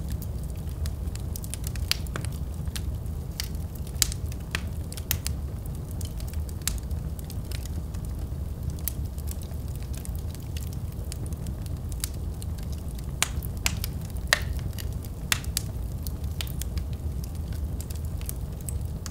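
Wood fire burning in a fireplace: a steady low rumble of flames with irregular crackles and sharp pops from the burning logs, a few louder pops scattered through.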